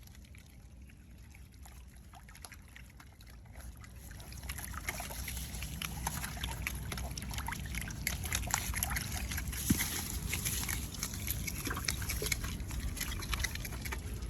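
Otters in water: trickling and sloshing with many quick clicks, growing louder about four seconds in.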